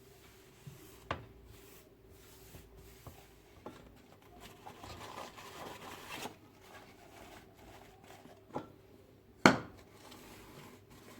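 Things being handled: a few light knocks, a rustling scrape in the middle, and one sharp clack about nine seconds in, over a faint steady hum.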